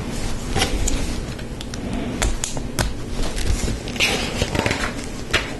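Lego Technic plastic pins and beams being handled and pressed together: a series of sharp clicks, with a brief rustle about four seconds in.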